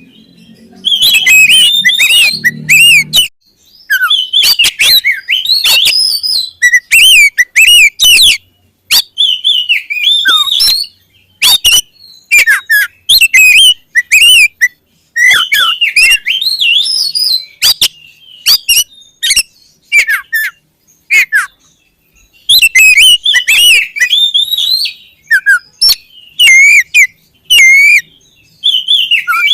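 Oriental magpie-robin singing loudly in phrases of fast, varied whistles mixed with sharp, harsh notes, separated by short pauses.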